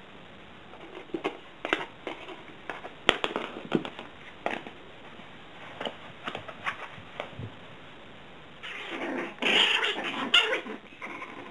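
Bolognese puppies yapping and making small play noises, in short scattered bursts, building to a louder, busier stretch near the end.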